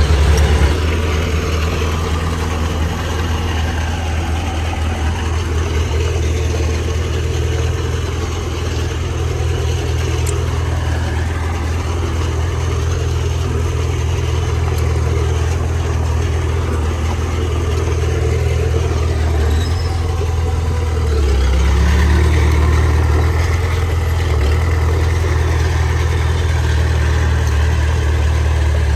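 Heavy diesel engine running steadily, with a deep low drone, swelling briefly about two-thirds of the way through.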